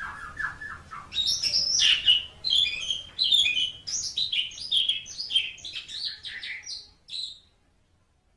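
Asian pied starling singing: a short run of repeated lower notes, then a fast jumble of varied high chirps and whistles. The song stops about seven and a half seconds in.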